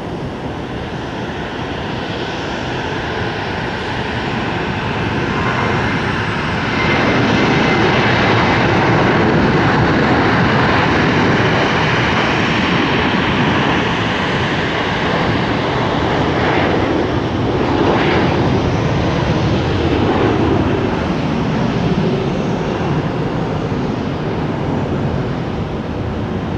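Jet airliner engines, a loud rushing roar that builds over the first few seconds, is loudest a few seconds later and stays strong with some swells through the rest.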